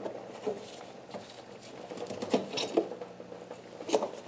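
Power steering fluid (transmission fluid) dripping and trickling from a loosened hose into a catch pan, an irregular patter with a few louder drip ticks.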